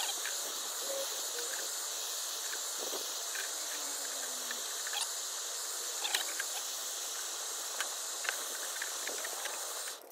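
Torch flame hissing steadily while melting plastic, with a few faint clicks; it cuts off suddenly just before the end.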